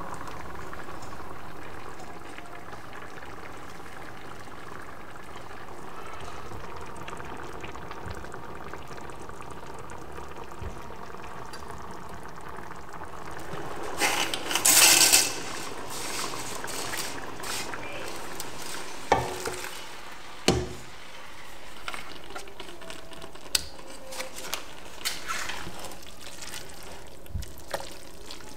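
Fish broth and tomato sauce simmering on the stove, a steady bubbling hiss, with a spatula stirring in the pot. About halfway through, a louder burst lasting a second or so as a bunch of dry spaghetti goes into the pot of broth, then two sharp knocks of the utensil on the pot a few seconds later.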